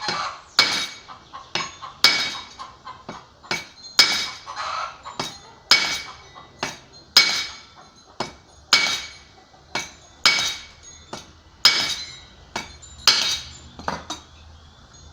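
Hammer striking the end of a brushcutter's steel drive shaft resting on cement: sharp, ringing metal blows about every second and a half with lighter taps between, stopping near the end. The shaft end is being peened out into a lip so it grips the transmission again after slipping.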